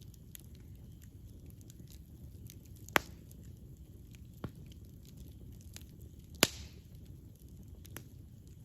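Wood campfire burning with a low steady rumble and light crackling ticks, broken by two sharp loud pops about three and a half seconds apart and a smaller pop between them.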